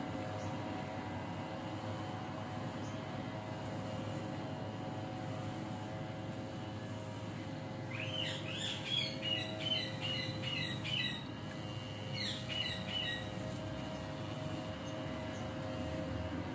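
A bird chirps in a quick run of short, high notes for about five seconds in the middle, over a steady hum.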